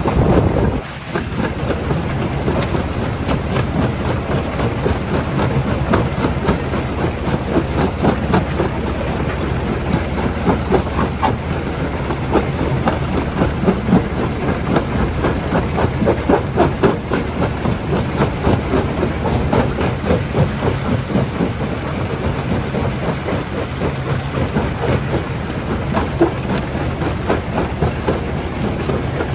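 Primary jaw crusher running under a steady low rumble, with continual irregular knocks and cracks of rock being broken and rattling through the jaws. The sound drops briefly about a second in.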